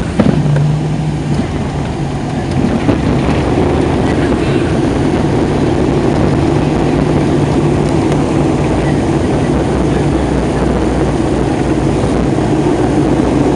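Inside the cabin of an ATR 72-500 turboprop, engine and propeller noise with a steady low hum and rumble. There are a couple of sharp knocks right at the start, and the noise grows louder about two to three seconds in, then holds steady.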